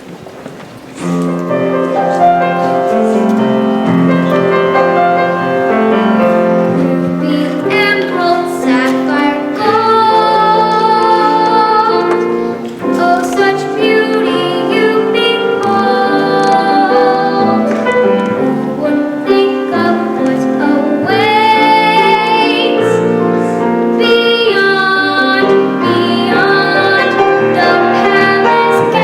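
A musical-theatre song: young voices singing a melody with piano accompaniment, starting about a second in, with long held notes.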